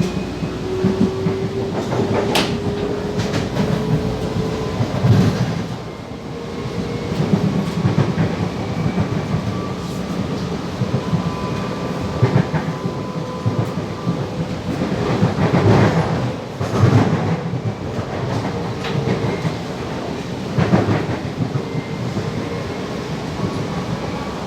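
Series 8900 electric multiple-unit train heard from inside the car while running between stations. The wheels keep up a steady rumble on the rail, with irregular clacks and knocks over the track. A faint whine rises slowly in pitch near the start.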